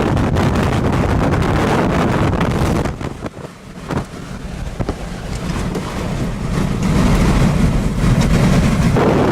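Strong wind buffeting the microphone with a loud, rushing noise. It eases suddenly about three seconds in, then builds back to full strength over the next few seconds.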